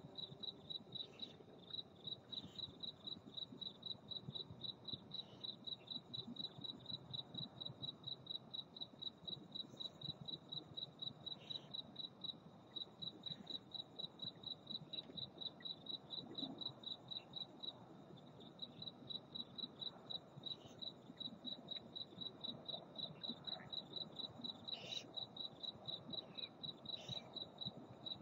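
A cricket chirping steadily, about three high chirps a second, with a couple of brief pauses.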